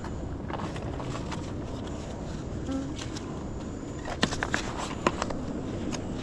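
Footsteps on rocky ground, with a few sharp clicks of shoes on stone about two-thirds of the way through, over a steady low rumble.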